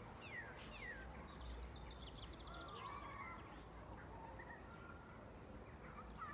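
Several wild birds calling and singing faintly: two falling whistles about half a second in, then a quick trill and warbling phrases, over a low steady rumble.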